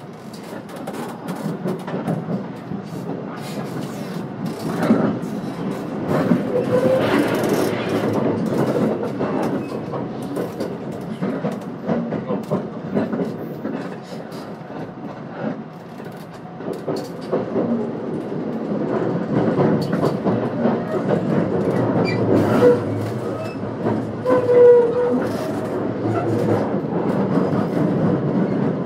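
Running sound of a JR West 521-series electric train heard from inside the car: a steady rumble that swells and eases, with wheels clicking over rail joints and twice a brief squeal.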